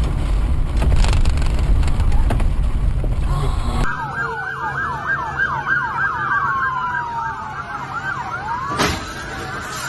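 Loud, even road and wind noise, then after an abrupt cut several emergency-vehicle sirens sounding at once, their pitches sweeping up and down rapidly and overlapping. A single sharp knock comes near the end.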